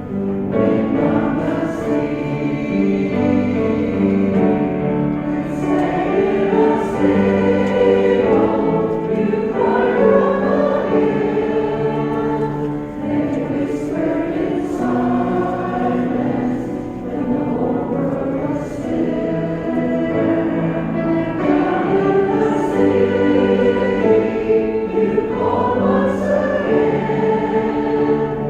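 A choir or congregation singing a hymn together, in long held notes that move in steps.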